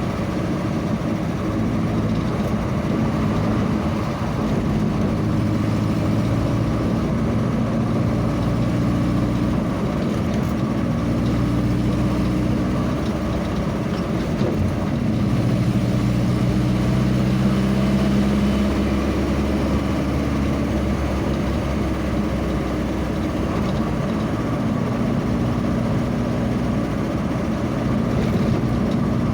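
A vehicle engine running on the road, its pitch drifting up and down with changes in speed.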